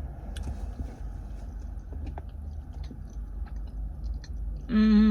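A person chewing a mouthful of chicken biryani, with small wet mouth clicks over a steady low rumble, then a loud hummed "mmm" of about a second near the end.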